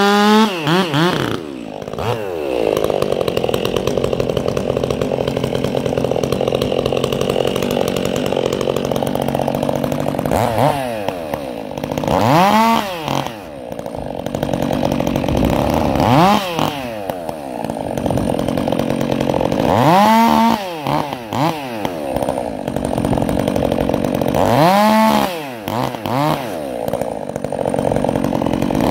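Stihl MS 400 two-stroke chainsaw running through a prototype muffler. It drops from full revs to idle right at the start, idles steadily, then is blipped up to high revs and let fall back about five times.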